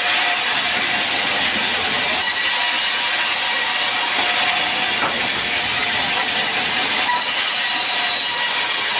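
Sawmill saw cutting through a sengon log, a loud, steady hissing whine of blade in wood.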